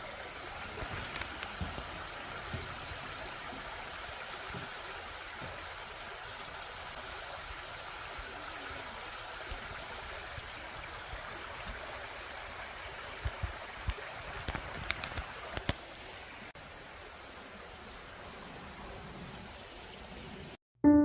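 Steady rushing of running water, with a few light clicks about two-thirds of the way through.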